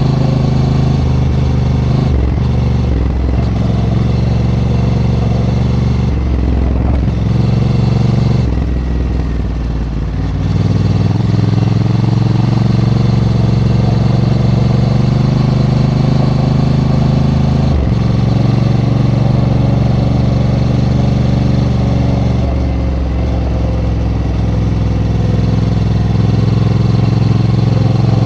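Honda Africa Twin's parallel-twin engine running under a rider's throttle. The engine note steps up and down with gear and throttle changes, easing off around nine seconds in and picking up again.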